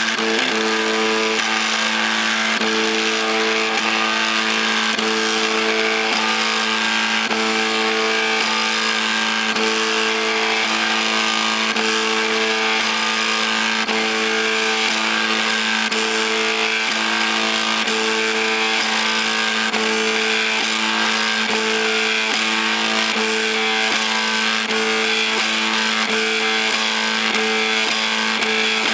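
MakerBot 3D printer's stepper motors whining in a few steady tones over a hiss as the print head moves, the higher tone cutting out briefly and returning every second or two.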